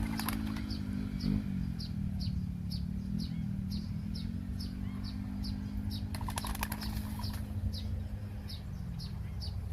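Small bird chirping in a rapid, even series of short high notes, about two or three a second, over a low steady hum.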